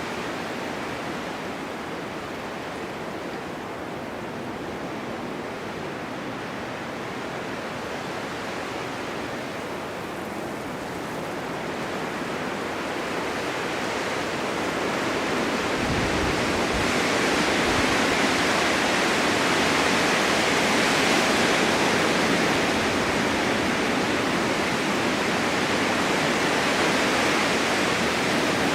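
Blizzard wind blowing snow across a mountainside as a steady rushing noise. It swells into a stronger gust about halfway through and stays strong to the end.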